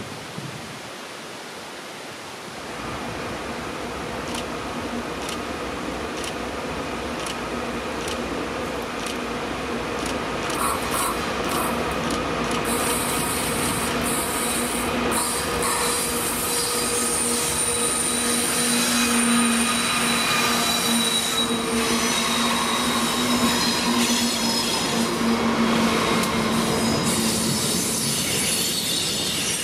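Train rolling past with its wheels squealing in several steady high tones, over a steady running noise with scattered clicks from the rails. It grows louder from about three seconds in.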